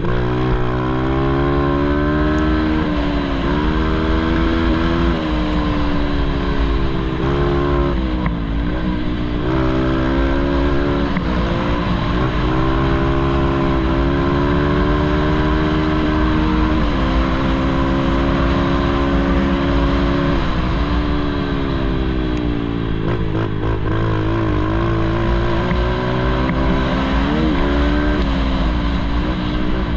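Pit bike engine revving hard on a motocross track, its pitch climbing and dropping back again and again with throttle and gear changes.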